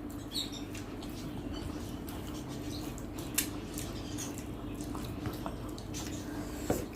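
Quiet eating sounds: chewing and small clicks and ticks as a meal of rice and curry is eaten, with one sharper tick a little over three seconds in and another near the end. A steady low hum runs beneath.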